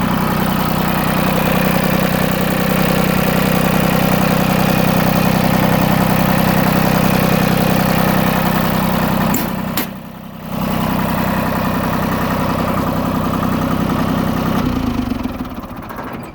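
Iseki Landhope 165F compact tractor's three-cylinder diesel engine idling steadily just after a cold-free, smooth start. Near the end it is shut off, running down and stopping.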